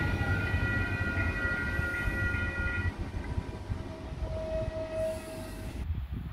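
CP Class 2240 electric multiple unit passing close by: a steady rumble of wheels on the track with a high, steady whine over it that stops about three seconds in as the rear of the train goes past. After that a single held tone sounds for about two seconds.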